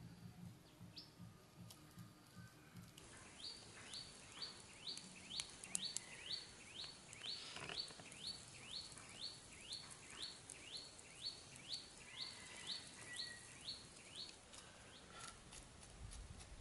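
A bird calling a long, even series of short, falling notes, a little over two a second. The calls start about three seconds in and stop shortly before the end.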